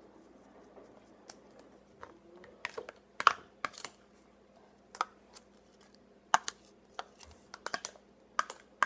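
Spoon clicking and tapping against a bowl in irregular strokes, some in quick clusters, while stirring a thick shampoo-and-salt slime mixture.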